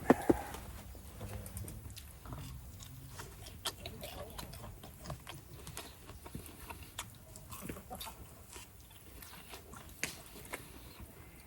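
A person chewing food, with irregular small clicks and crackles throughout.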